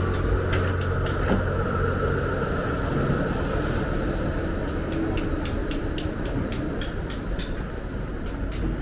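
City street traffic noise: a steady low rumble of passing vehicles, with scattered sharp clicks throughout.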